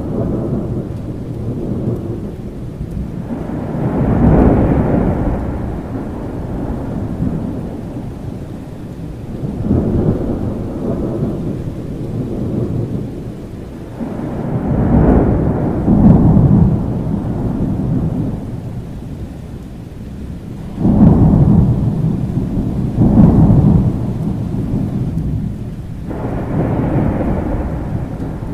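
Thunderstorm: steady rain with thunder rumbling continuously, swelling into several louder rolls, one breaking in suddenly about two-thirds of the way through.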